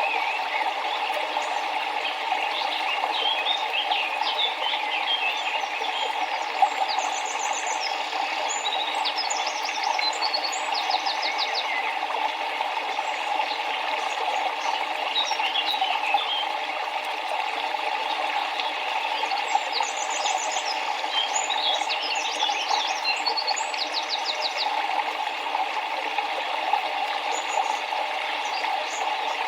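Steady rush of flowing river water, with small birds chirping and trilling over it in spells: from a few seconds in to about twelve seconds, again around twenty seconds, and near the end.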